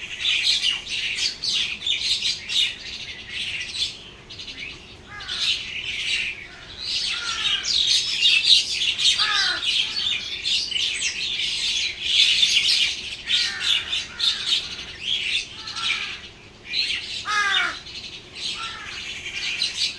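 Many small birds chirping and squawking together without a break, with a few louder calls that sweep downward in pitch, about halfway through and again near the end.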